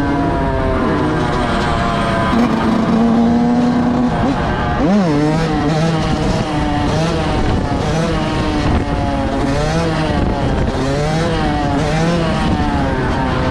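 Several motor vehicle engines revving up and down at once, their notes overlapping and swooping in pitch, with one sharp rev about five seconds in.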